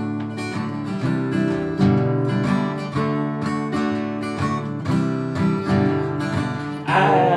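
Acoustic guitar strummed in a steady rhythm, with a singing voice coming in near the end.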